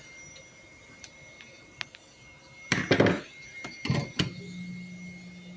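Knocks and a thunk from a circuit board being re-clamped in a bench vise, with a few small clicks, over the faint steady blowing of a hot air rework station. A low steady hum starts about four seconds in.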